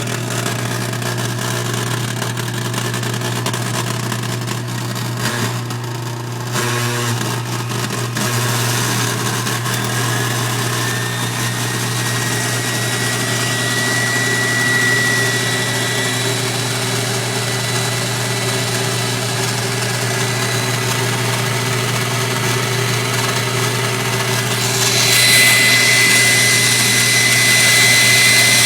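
KitchenAid Artisan stand mixer's brushed motor running steadily with a rough grinding noise and a high whine, growing louder about 25 seconds in. The owner places the grinding where the brushes are, even with new brushes and an adjusted speed-control plate, and wonders whether the armature or a bearing is bad.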